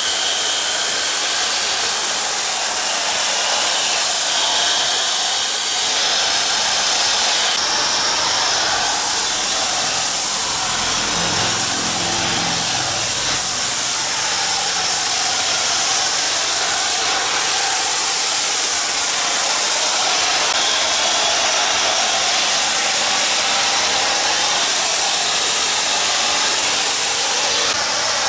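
High-pressure washer jet spraying water onto a car body: a loud, steady hiss. A deeper rumble joins for a few seconds near the middle.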